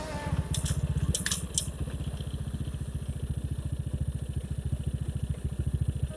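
Motorcycle engine running at low revs with a steady, rapid, even putter, and a few sharp clicks in the first second and a half.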